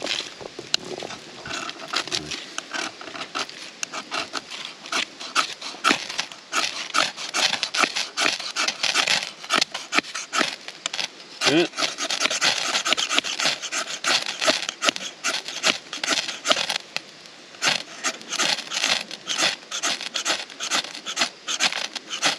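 Wood being worked in quick, rhythmic rasping strokes, kindling being readied for a campfire.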